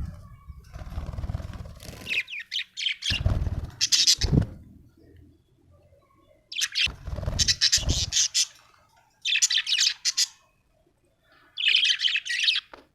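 Budgerigar chirping and chattering in four short bursts, with low rumbling noise under the first two.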